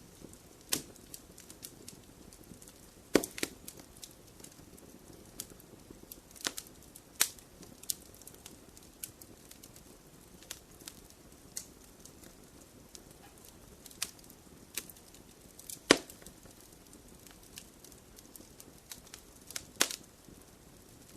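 Wood fire crackling in a fireplace: a soft, steady hiss broken by irregular sharp pops and snaps, with louder pops about 3, 7, 16 and 20 seconds in.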